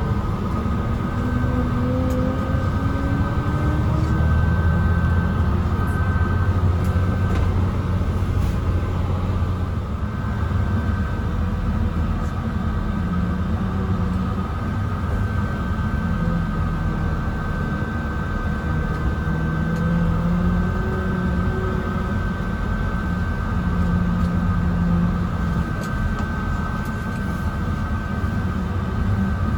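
Mercedes-Benz O307 city bus heard from inside the passenger cabin while under way: a steady low rumble of the diesel engine and drivetrain. A whine rises in pitch over the first few seconds as the bus accelerates, and a steady high tone runs throughout.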